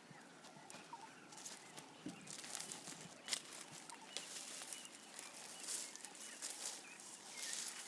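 A giraffe feeding: faint rustling and crunching of leaves and twigs, with scattered sharp clicks and short bursts of rustle that grow denser after about two seconds. Small bird chirps come through faintly.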